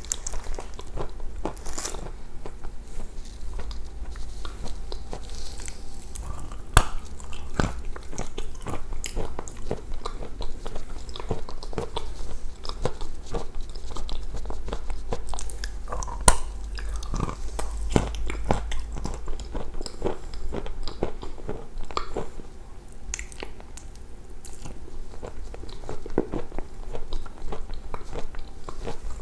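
A person biting and chewing food close to the microphone, with crisp crunches now and then; the sharpest crunches come about a quarter of the way in and a little past halfway.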